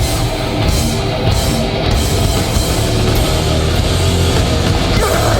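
Live hardcore band playing loud and fast: distorted electric guitars, bass and pounding drum kit, with no vocals.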